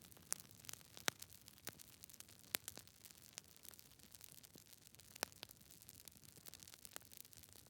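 Wood fire crackling in a fireplace: quiet, irregular snaps and pops over a faint hiss, with the sharpest pops about a second in, about two and a half seconds in and just past five seconds.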